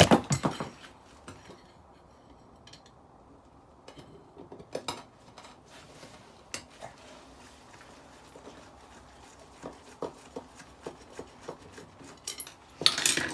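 Small metal parts of dismantled decking lights clinking and clattering as they are handled and set down, in scattered knocks with a louder clatter near the end.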